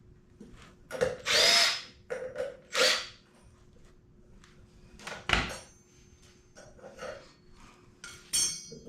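Cordless power drill or driver running in several short bursts, tightening down the bolts of a new brake rotor on a mini bike. The longest burst comes about a second in, with a rising whine.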